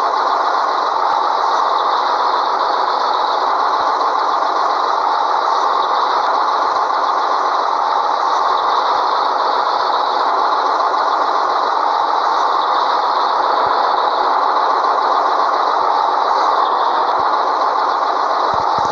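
Scania 113H truck's diesel engine running steadily as one continuous, unbroken noise with no gear changes or pauses.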